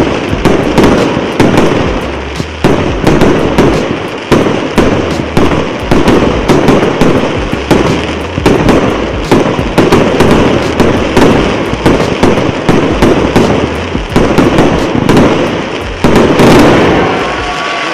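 CC8305 "Red Heat" consumer firework cake (multi-shot battery) firing rapid shot after shot of comets that burst overhead, with many sharp pops on top. The loudest volley comes about 16 seconds in, then it dies away near the end.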